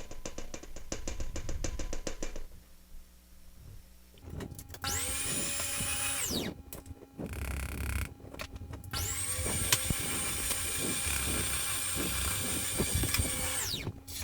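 Electric mixer beating cake batter: a short run of about a second and a half, then a longer run of about five seconds. Each run spins up to a high whine and winds down when switched off.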